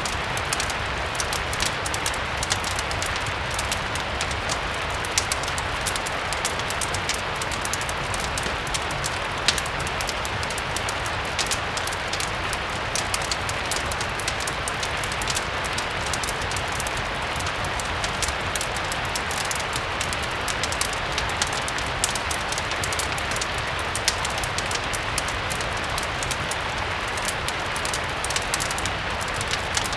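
Steady rain with a fireplace crackling through it: many small sharp pops and snaps scattered over the even hiss of the rain.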